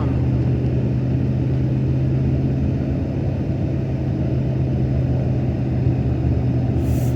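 Steady low rumble of a car's engine and tyres heard from inside the cabin while driving, with a short hiss near the end.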